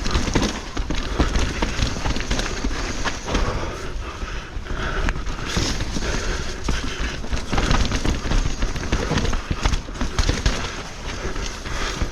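Mountain bike riding over rough trail: tyres rolling on dirt and rock, with frequent knocks and rattles from the bike throughout, picked up by an action camera mounted on the rider or bike.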